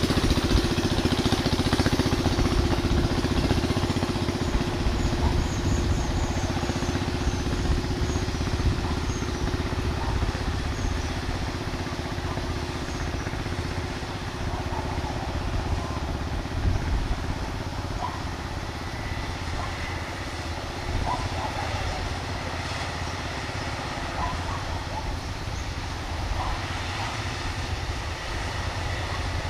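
Kubota DC-105X combine harvester running steadily in the rice field, a continuous low engine rumble with a steady hum that fades somewhat over the first half.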